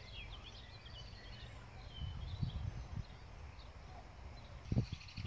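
Small birds chirping and singing in short, quick phrases, over a low outdoor rumble with a couple of brief low bumps, one about two seconds in and one near the end.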